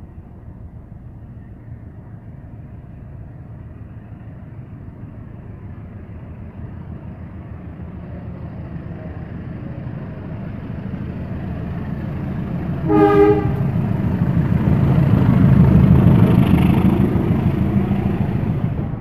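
A train approaching and running past a station platform, its rumble building steadily and loudest as it passes near the end. About two-thirds of the way in it sounds one short horn blast.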